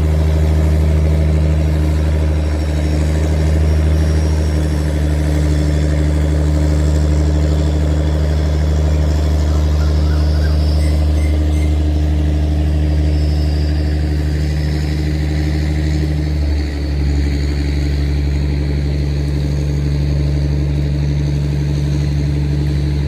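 Tugboat's diesel engine running hard under throttle, a steady deep drone whose note drops slightly about seventeen seconds in.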